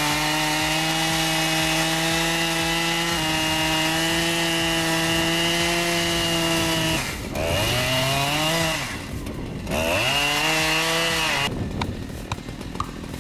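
Chainsaw running at high revs with a steady whine, easing off and revving back up twice, then stopping suddenly about eleven seconds in.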